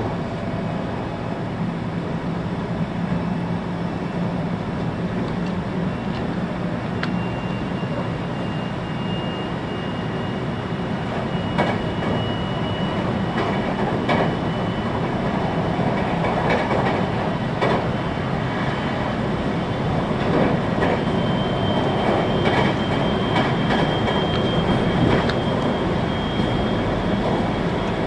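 A 521-series electric multiple-unit car running at speed, heard from inside the passenger cabin: a steady rumble of wheels on rail with scattered short knocks over rail joints. A faint high whine comes in about seven seconds in and slowly rises in pitch.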